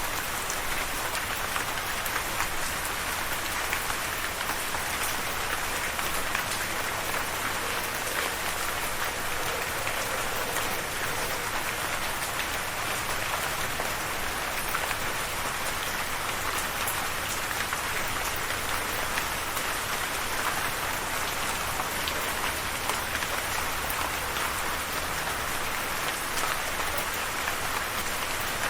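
Steady rain falling, drops pattering on a surface in a continuous even hiss.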